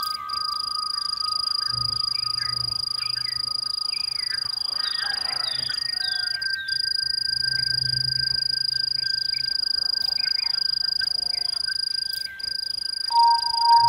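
Night nature ambience: a steady high-pitched insect drone, like crickets, under many short bird chirps and long held whistled notes. A louder steady note comes in near the end.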